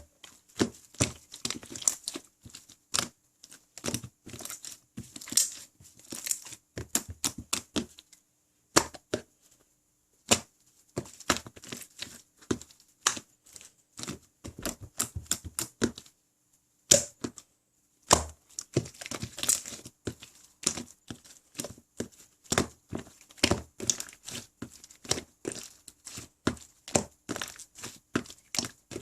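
Butter jiggly slime being squished, poked and stretched by hand, giving rapid irregular clicks, crackles and small pops, with two short pauses in the middle.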